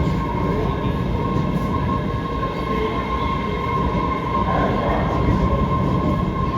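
MBTA Red Line subway train running at the platform: a heavy, steady rumble with a steady high whine over it.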